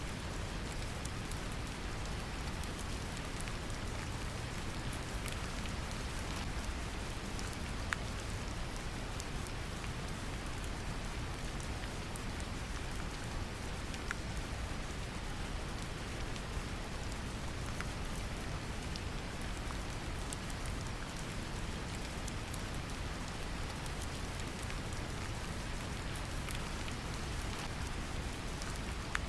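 Steady brown noise, a deep even rumble, mixed with gentle rain falling, with scattered light drop ticks.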